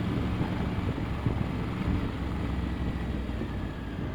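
Triumph Tiger 900 motorcycle's three-cylinder engine running steadily at road speed, mixed with wind rush on the helmet microphone.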